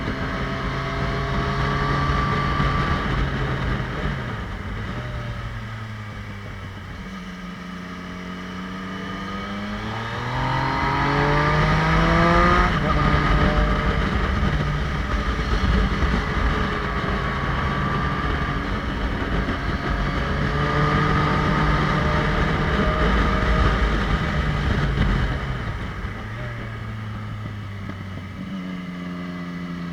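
Motorcycle engine heard from on board, accelerating and easing off through the gears with wind rumble underneath. The pitch climbs steeply from about ten seconds in, then drops sharply at a gear change a little past twelve seconds.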